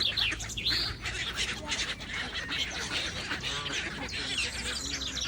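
A busy chorus of waterbirds calling on a lake, many short calls overlapping without a break.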